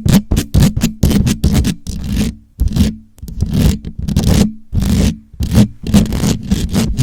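Fingers or nails scratching and rubbing directly on a microphone, in quick irregular strokes several times a second, loud and close, with a steady low hum under them; the scratching pauses briefly twice.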